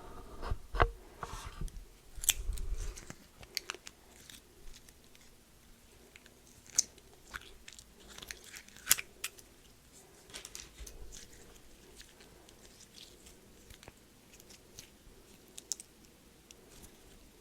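Close-miked crunchy chewing of a snack: sharp crunches and crackles, clustered in the first few seconds and again around the middle, growing sparse toward the end.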